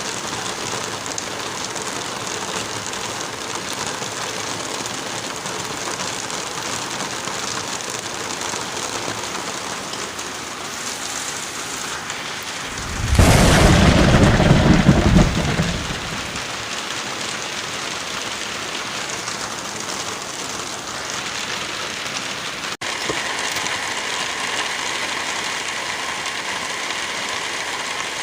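Steady wind through forest trees with light rain falling. About halfway through, a loud low rumble swells for roughly three seconds, then falls back to the even rain and wind.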